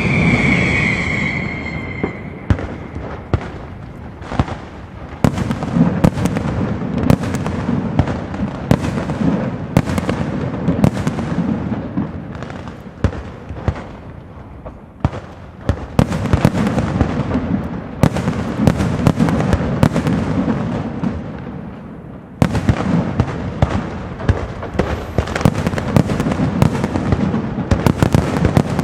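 Castillo aerial fireworks display: rapid, dense volleys of shell bursts and crackling bangs that swell and ease off in waves. A whistling firework falls in pitch and fades over the first two seconds, and a sudden heavier barrage breaks out about two-thirds of the way through.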